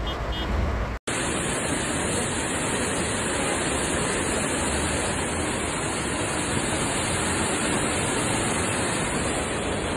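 Steady, unchanging rushing hiss of heavy rain and fast-flowing floodwater, starting after a sudden cut about a second in; before the cut, the low rumble of a car driving through the downpour.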